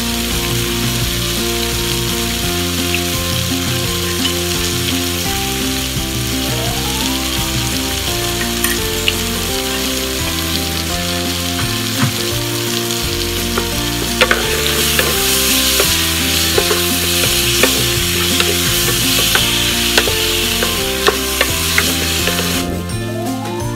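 Onions, lemongrass and tomato sizzling as they fry in a pan, with a spatula clicking against the pan now and then. The sizzle grows louder a little past the halfway point.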